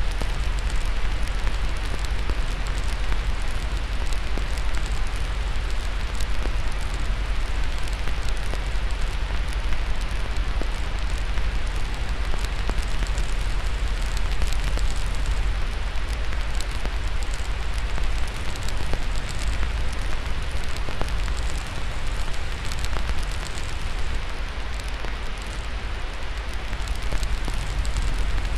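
Steady white-noise hiss over a deep, even low rumble, mixed with the light, scattered crackle of a burning wood fire.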